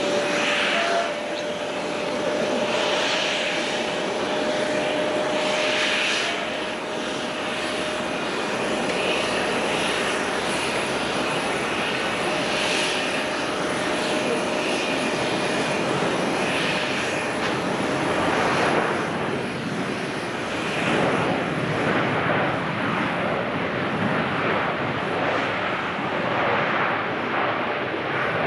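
Jet airliner landing on a wet runway with its turbofan engines in reverse thrust: a loud, steady rushing noise, with a steady whine through the first half.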